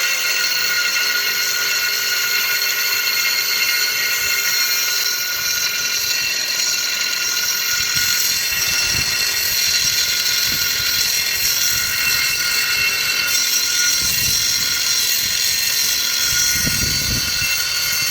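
A power tool running steadily at high speed as it cuts through the heater's exhaust pipe, with a loud high-pitched whine.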